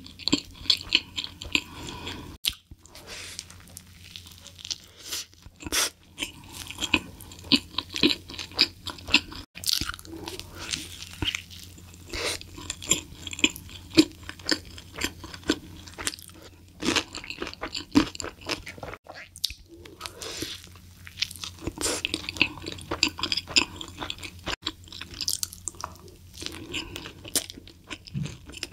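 Close-miked eating: bites into a hamburger and steady chewing, with many sharp crackles and wet mouth clicks in irregular bursts.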